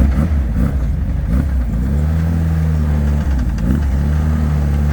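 BAC Mono R's four-cylinder engine idling, with a few short throttle blips in the first second and a half and again about three and a half seconds in.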